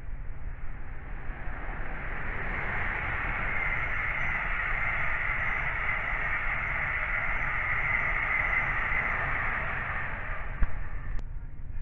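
Electric passenger train passing at speed: a rushing noise of wheels on rails that builds, holds and fades away. A sharp click comes near the end.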